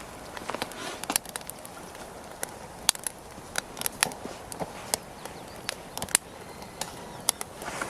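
Newly lit wood fire crackling in a campfire pit: irregular sharp pops and snaps over a low hiss, the loudest about three seconds in and again about six seconds in.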